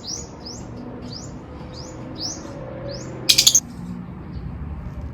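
A bird chirping: a string of short rising chirps, about two a second. About three seconds in comes a brief, loud rasping burst of a few quick pulses.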